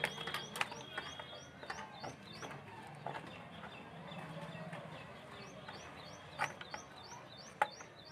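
Small bird chirping: two runs of short, high, repeated notes, about four a second, one near the start and one near the end, with a few sharp clicks between.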